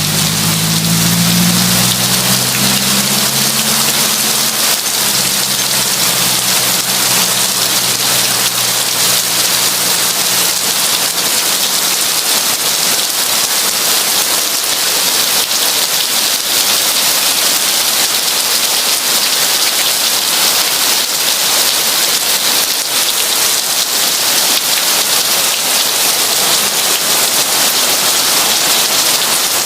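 Heavy rain pouring steadily, a dense even hiss of drops on surfaces. A low rumble, left over from before, fades away over the first dozen seconds or so.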